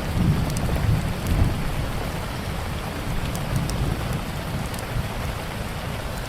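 Steady rain with a low rumble of thunder that swells in the first second and a half, and scattered small pops and crackles of a wood fire.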